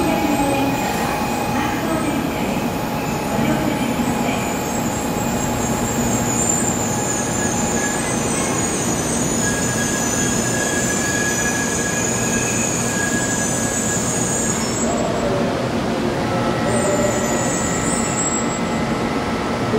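923 series Doctor Yellow Shinkansen inspection train rolling slowly past and braking to a stop, with a steady rumble and a high squeal that stops about three-quarters of the way through as the train comes to rest.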